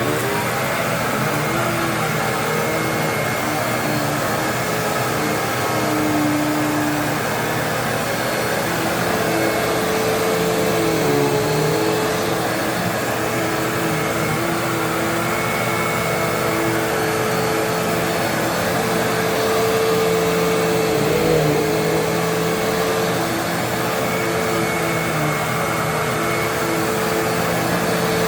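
Hoover WindTunnel Twin Chamber bagless upright vacuum cleaner running steadily as it picks up a test mess, its motor hum carrying a few tones that waver slightly.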